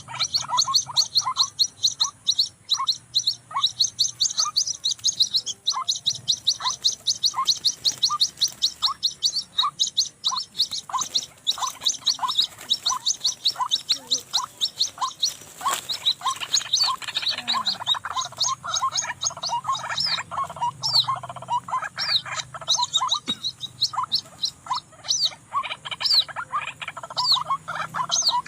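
White-breasted waterhen (ruak-ruak) calls: a long series of short notes about two a second over a much faster run of high chirping notes, growing busier in the second half.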